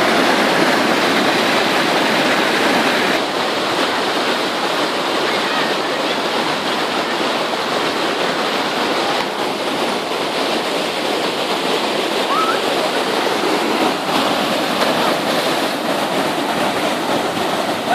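Waterfall: a steady rush of falling water, dipping slightly about three seconds in.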